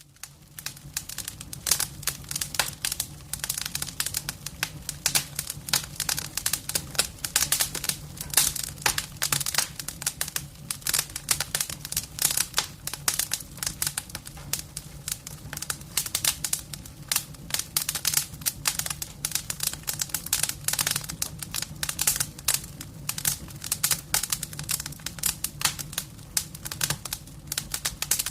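Wood fire burning in a fireplace, crackling and popping with rapid, irregular snaps of varying loudness, over a low steady hum.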